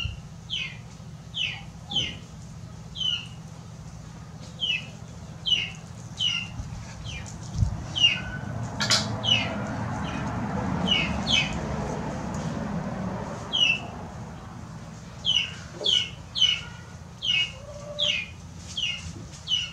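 A bird giving short, high, falling peeps over and over, about one or two a second, sometimes in quick pairs. A soft low rushing sound swells and fades in the middle.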